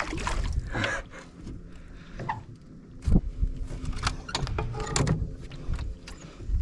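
Small electric trolling motor running off a 6-volt battery, a steady low hum, with a few knocks and thumps, the loudest about three and five seconds in.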